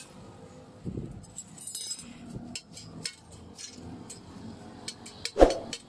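Metal pieces clinking and knocking irregularly in a blacksmith's workshop, with one loud metallic knock near the end.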